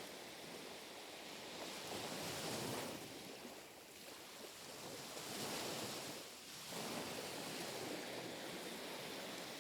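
Gentle ripple waves washing up on a shore in a repeating cycle, rising and falling about three times.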